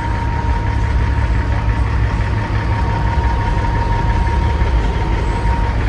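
Diesel truck engine idling with a steady low rumble. A thin steady whine runs over it and stops near the end.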